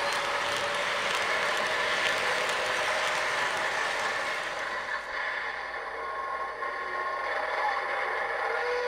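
MTH Coors Light Silver Bullet model train running on model railroad track, its wheels and trucks making a steady mechanical clatter and whir that thins a little about halfway through.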